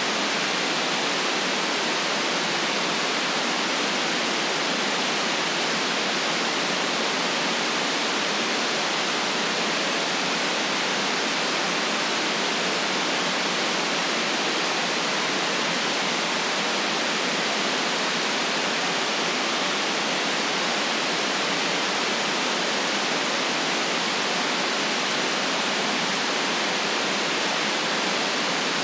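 Steady, unchanging white noise: an even hiss with no deep bass, played as a relaxation sound.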